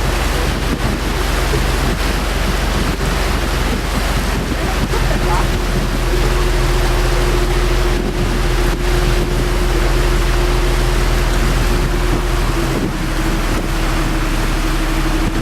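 A boat under way: its engine runs steadily with heavy wind noise on the microphone and water rushing past the hull. A steady engine hum comes in about five seconds in and holds one pitch.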